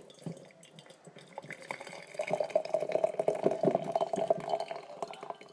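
Water poured from an electric kettle into a cup. A trickle and light clinks come first, then a steady pouring stream about two seconds in that lasts a couple of seconds.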